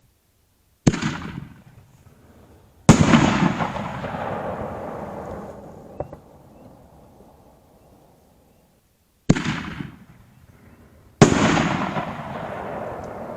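Two 5-inch aerial canister shells fired from mortar tubes: each a sharp launch bang, then about two seconds later a louder break that rolls and fades over a few seconds.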